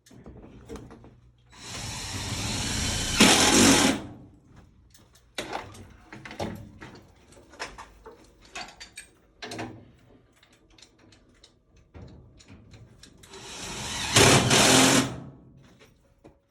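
A power drill runs twice, each run lasting about two seconds, growing louder and then stopping sharply. Scattered clicks and knocks of tools being handled fall between the runs.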